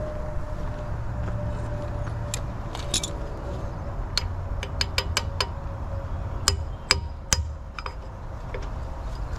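Light metallic taps and clinks of a hammer and steel parts, a dozen or so separate strikes, the three loudest close together about six and a half to seven and a half seconds in, over a steady low hum.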